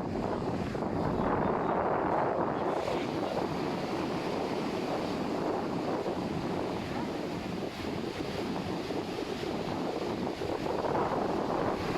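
Ocean surf washing in steadily, with wind blowing on the microphone; the wash swells a little near the start and again near the end.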